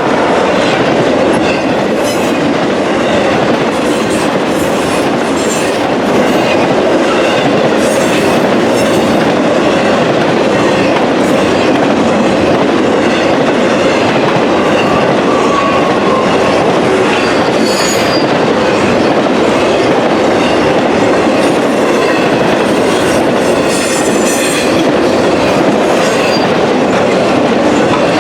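A train rolling past at close range, wheels clacking steadily over the rails, with a few brief high squeals from the wheels.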